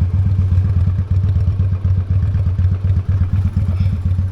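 Honda Steed V-twin motorcycle engine running steadily, a low, evenly pulsing engine note.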